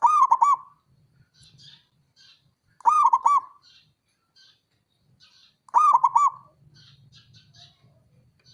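Zebra dove (perkutut) cooing: three loud phrases about three seconds apart, each a quick run of three or four rolling notes. Faint high chirps sound between the phrases.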